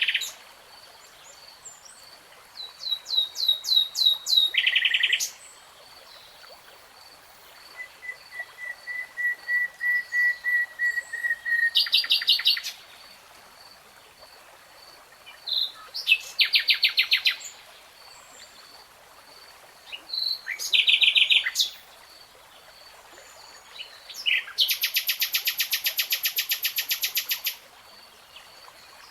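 A nightingale singing in varied phrases separated by short pauses: fast rattling trills, a slow run of piping notes that grows louder, and a long buzzy rattle near the end. A faint, steady high ticking repeats in the background.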